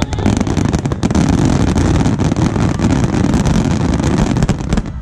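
Fireworks finale barrage: many aerial shells bursting together in a continuous rumble of booms with dense crackling, dropping away briefly just before the end.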